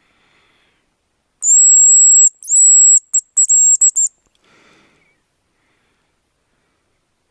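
Hazel grouse decoy whistle blown to imitate the bird's call: two long, thin, very high whistles followed by a quick run of short notes. It is a call to lure hazel grouse, and no bird answers. A faint rustle follows.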